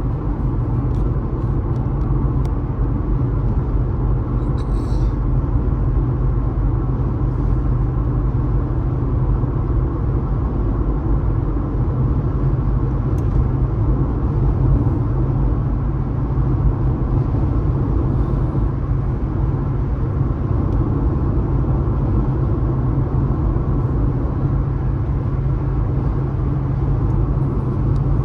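Car driving at a steady speed on a highway: a continuous low rumble of engine and tyre noise.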